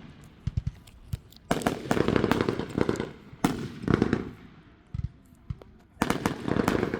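Fireworks going off in rapid crackling bursts: scattered single pops at first, then three dense clusters of fast sharp cracks.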